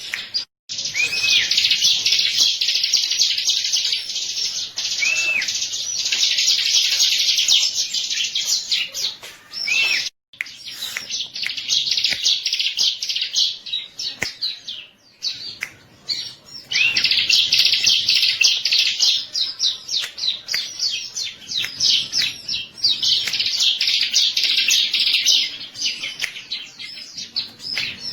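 Bar-winged prinia (ciblek) singing a long run of rapid, high, chattering song phrases, broken by a couple of brief pauses.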